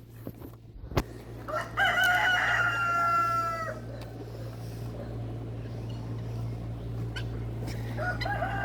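A rooster crowing: one full crow lasting about two seconds, starting a couple of seconds in, and another crow starting near the end, over a steady low hum.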